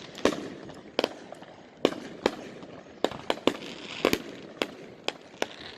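Aerial firework shells bursting: a rapid, irregular series of about a dozen sharp bangs, some close together, with a brief rush of crackle about four seconds in.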